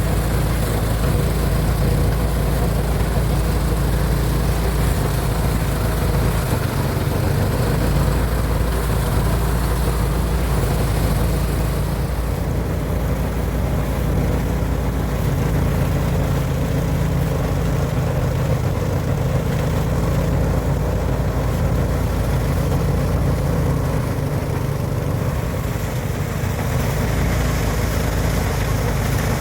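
Motorised rice thresher running steadily, its engine droning without a break.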